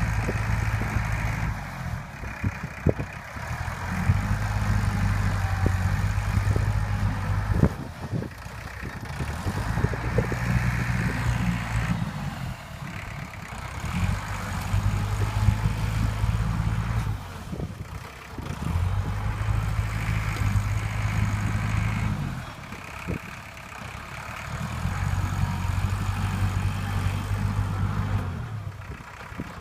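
Heavy diesel engine of earthmoving machinery working in repeated cycles, labouring for about three seconds at a time and easing off in between, about every five seconds, with occasional metallic clanks.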